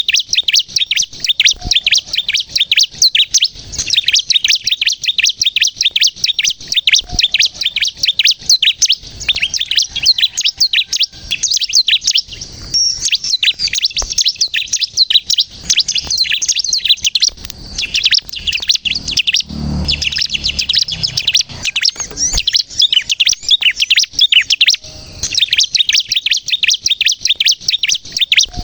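Bar-winged prinia (ciblek kristal) in full song: a fast, unbroken chatter of high chirps that thins only briefly a few times.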